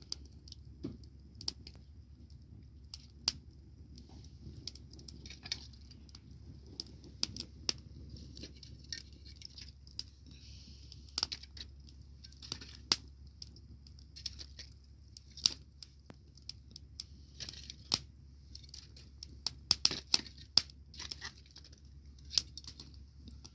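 Bonfire crackling: irregular sharp pops and snaps, several a second and uneven in loudness, over a faint hiss.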